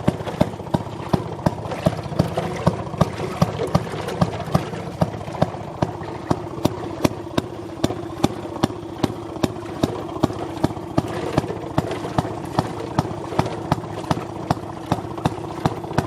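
Gas-powered Maytag wringer washer's small two-stroke engine running steadily, with sharp, evenly spaced exhaust pops about three times a second over the steady hum of the machine.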